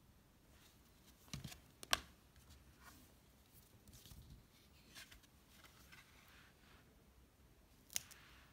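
Faint handling of a children's cardboard book: soft rustles of pages with a few sharp clicks and taps, the loudest about two seconds in and another near the end.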